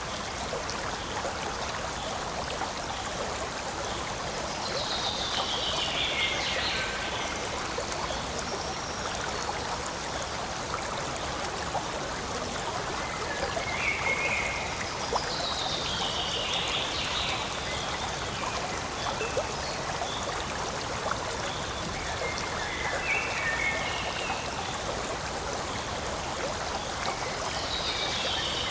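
A forest stream running over stones in a steady, even babble. About every ten seconds a falling call rises above the water, with shorter chirps between the calls.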